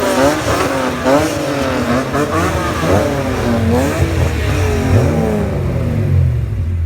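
Several BMW E46 straight-six engines with aftermarket exhausts revving together in quick, overlapping blips, their pitches rising and falling across one another. About five and a half seconds in the revving eases and a low idle rumble is left.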